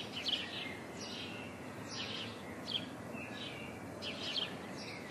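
Small birds chirping outdoors: short, high, falling chirps repeated every half second or so over a steady background hiss of outdoor ambience.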